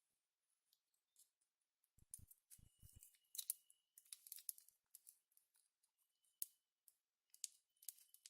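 Faint clicking and tapping of a keypad mobile phone being handled and its keys pressed while trying to switch it on, with a few dull knocks about two seconds in; the phone still does not power up.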